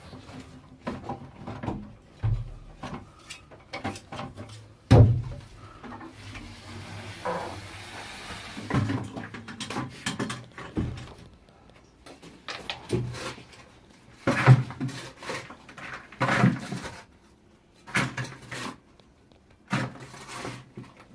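Irregular knocks, clunks and scrapes of hand digging work, with buckets of broken rock and soil being handled and passed up out of a shaft. A few louder thumps stand out among quieter rustling.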